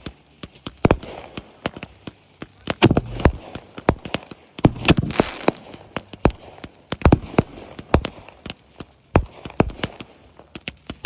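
Fireworks going off: a rapid, irregular string of sharp bangs from bursting shells, with a crackling hiss between them that is densest about five seconds in.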